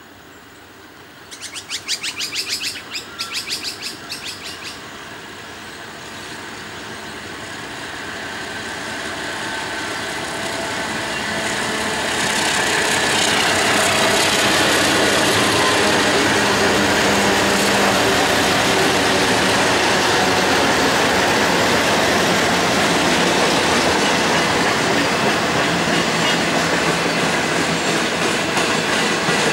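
A train of 442 class and 49 class diesel locomotives hauling empty sleeper wagons approaches and passes close by, the locomotive sound growing louder over the first dozen seconds and then staying loud as the wagons' wheels clatter over the rail joints. Near the start, a loud, rapidly pulsing high-pitched chattering lasts about three seconds.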